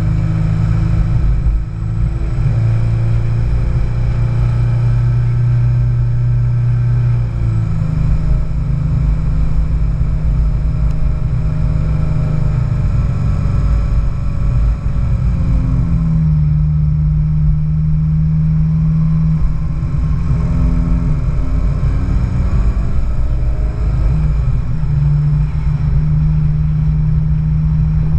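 Car engine and exhaust running at low, moderate revs, its steady note rising and falling a few times as the car moves slowly in a parade.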